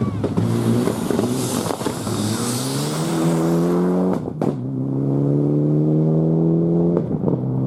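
Four-wheel-drive rally car engine accelerating hard, its pitch climbing through the gears. A sharp crack comes with the upshift about four seconds in, and there is another shift near the end.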